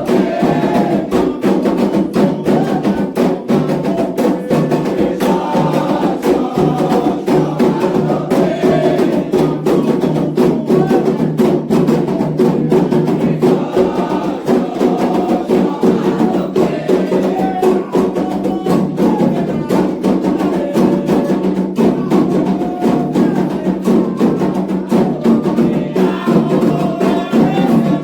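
Candomblé ritual drumming: atabaque hand drums and a struck bell keep a fast, dense, continuous rhythm, with voices singing over it.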